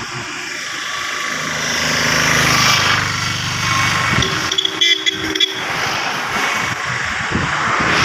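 Road traffic going by, with a vehicle engine passing in the first half and a vehicle horn sounding in short blasts about four to five seconds in.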